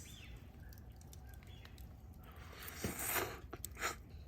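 A person eating pasta from a pot: a short noisy slurp about two seconds in, with light clicks of utensils.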